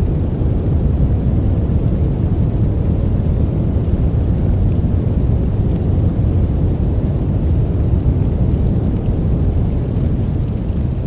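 Steady, deep rumbling noise of a white-noise sleep track, its weight in the low end with little hiss, unchanging throughout.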